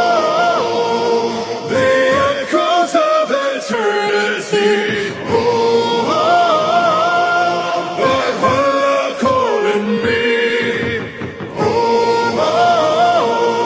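Music: a choir singing long melodic lines with wavering ornaments, the phrase repeating twice.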